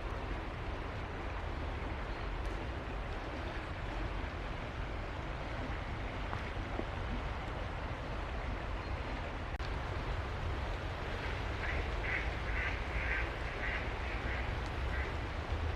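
Steady rushing background noise, with an animal calling in a quick series of about eight short calls, about two a second, in the last third.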